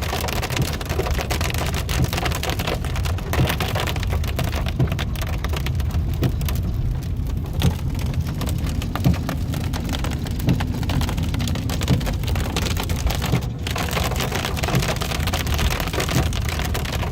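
Hailstones pelting a moving car: a dense patter of small sharp hits over a steady low engine and road rumble.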